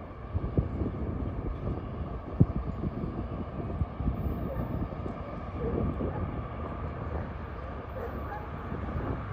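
Loaded CSX coal train rolling past: a steady low rumble from the cars with irregular clanks and knocks.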